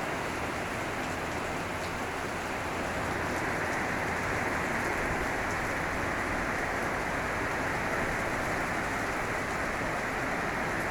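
Steady rain falling: a dense, even hiss that grows slightly louder about three seconds in.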